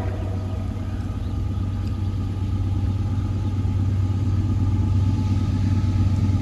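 Low, steady rumble of an approaching freight train led by CSX AC44CW and ES40DC diesel locomotives, slowly growing louder as it draws nearer.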